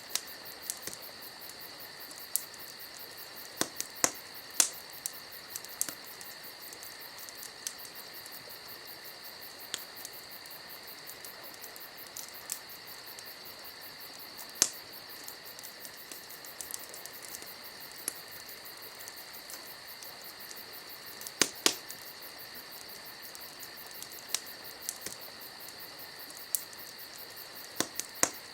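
Campfire crackling: irregular sharp pops and snaps, a few of them much louder, over a steady high chorus of night insects.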